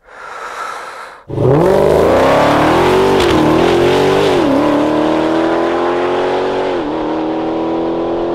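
The supercharged 6.2-litre HEMI V8 of a Dodge Hellcat Redeye, tuned to about 1000 hp, at full throttle on a drag-strip pass. It comes in loud about a second in and climbs in pitch through the gears, with three upshifts that each drop the pitch before it climbs again.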